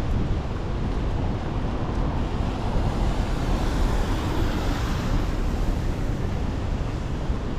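Traffic on a wet city street, with the tyre hiss of passing vehicles swelling around the middle, over a low rumble of wind on the microphone.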